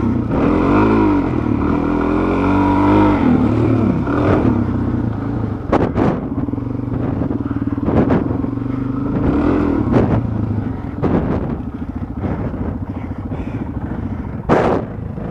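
Dual-sport motorcycle engine running at low speed. The revs rise and fall over the first few seconds, then hold steadier, with a few short knocks or clatters now and then.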